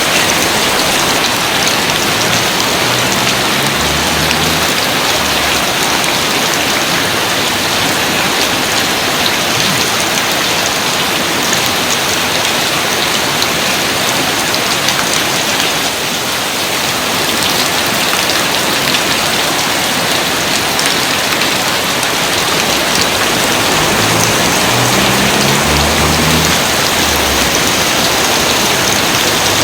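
Steady heavy rain, a dense even hiss of falling drops. A faint low rumble comes in briefly about three seconds in and again near the end.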